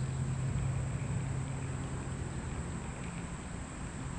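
A steady low hum under an even wash of outdoor noise, with no distinct events.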